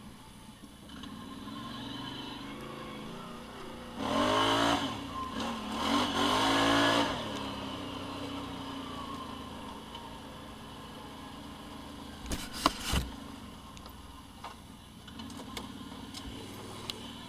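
Off-road vehicle engine idling, revved hard twice about four and six seconds in, then settling back to idle. A few sharp knocks come later.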